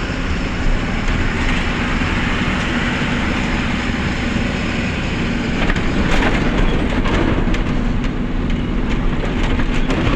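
Truck running: a steady drone of engine and road noise with a constant hum, and scattered clicks and knocks in the second half.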